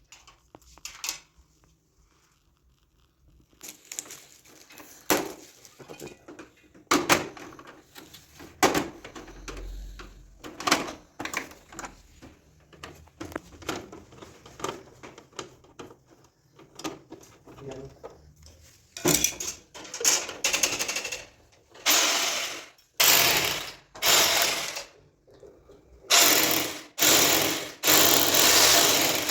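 Scattered knocks and clicks of tools and parts being handled, then an electric drill run in repeated short bursts of about half a second to two seconds each, starting about two-thirds of the way in.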